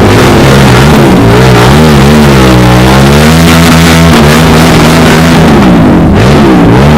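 Motorcycle engine revving, its pitch rising and falling several times in quick blips.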